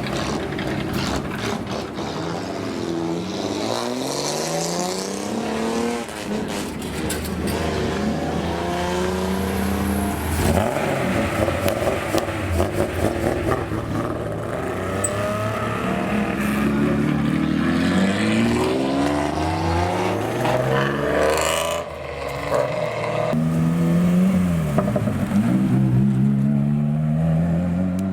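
Modified cars with straight-pipe exhausts revving hard, their engine notes climbing and falling again and again as they pass one after another. A short run of rapid blips comes about halfway through.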